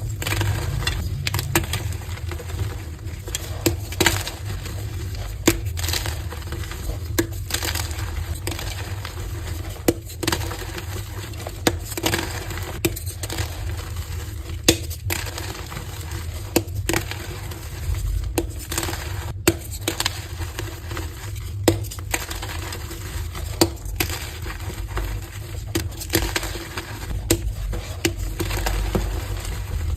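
Heart-shaped blocks of coloured gym chalk being crushed and broken, a steady run of crisp crunches and crumbles at irregular intervals over a low hum.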